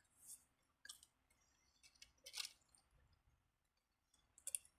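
Near silence with a few faint, brief mouth clicks and smacks of someone chewing a sandwich.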